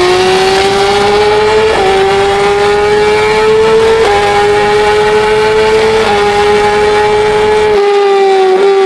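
Racing motorcycle engine at high revs, heard from on board. The engine note climbs steadily and dips briefly three times, about two seconds apart, as it shifts up through the gears. Near the end the pitch falls as the bike slows, and the rushing noise underneath drops away.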